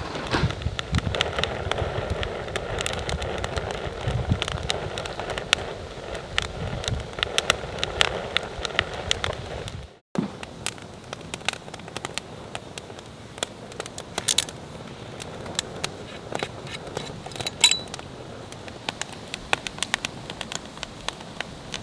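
Wood fire crackling with frequent sharp pops and snaps. Over the first half a steady hiss runs under the pops. After a sudden cut about ten seconds in, the crackling goes on more sparsely.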